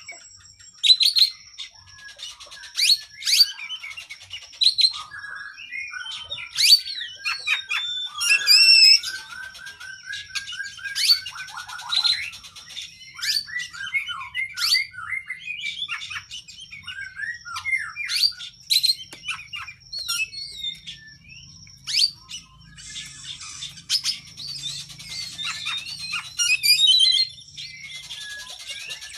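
Oriental magpie-robin (kacer) singing a long, varied song of sharp whistled notes, quick chirps and trills, with a thin steady high tone running behind it.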